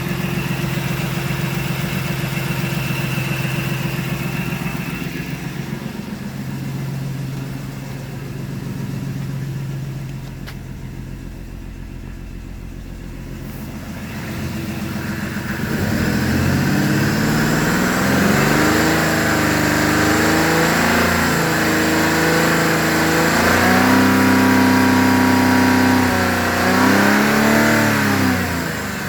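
A 159,000-mile 3.7-litre V6 from a 2009 Mazda CX-9 running in an engine run test: it idles steadily, then from about halfway through is revved up and let back down several times.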